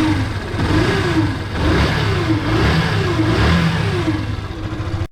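Yamaha FZ single-cylinder motorcycle engine running and being revved up and down about four times in quick succession. With the stator's charging wires reconnected, it makes the strange engine noise that the mechanic traces to the stator's magnetic pull, a sign of a stator starting to fail.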